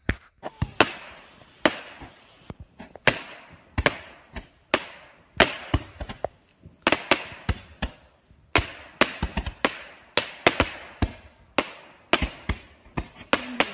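Consumer fireworks going off: an uneven run of sharp bangs and pops, about two to three a second, each trailing off briefly.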